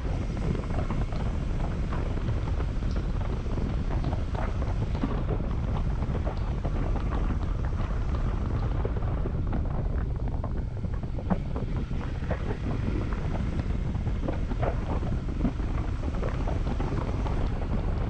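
Steady wind buffeting on an action camera's microphone while riding a Honda CB150X motorcycle, with crackling throughout and the bike's engine running underneath.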